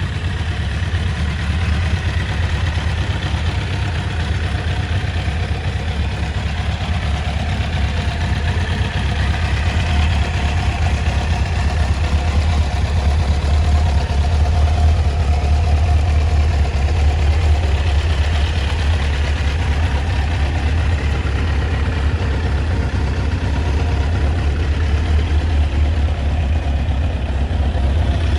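1985 Kawasaki GPZ900R Ninja's 908 cc inline-four engine idling steadily.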